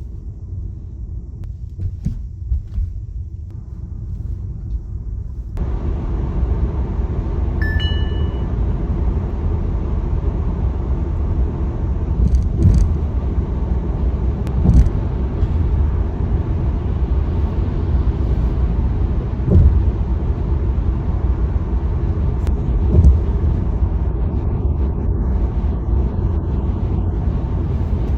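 Tesla electric car driving: steady low road and tyre rumble, stepping up in loudness about five seconds in as speed builds. A short high beep sounds near eight seconds, and a few soft thumps follow later.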